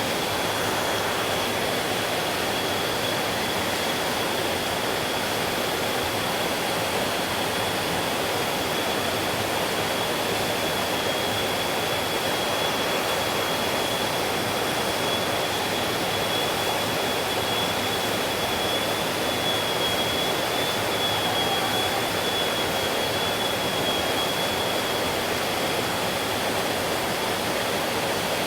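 Creek water rushing steadily over rocks, an even full wash of sound, with a thin steady high-pitched whine held above it that wavers slightly about two-thirds of the way through.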